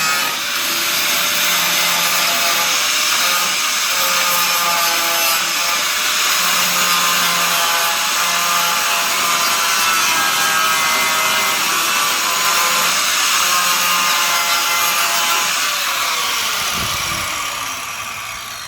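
Angle grinder running under load on car-body sheet steel, its pitch wandering as it bites. Near the end it is released and spins down with a falling whine.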